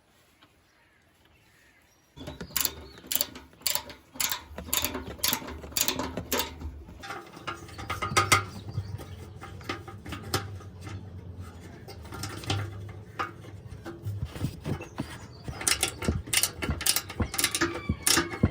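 Repeated sharp clicks and knocks, irregular and roughly two a second, over a low steady hum that starts about two seconds in.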